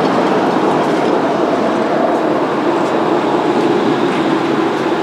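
Drag car under way at steady speed: engine drone and road noise with a steady low hum.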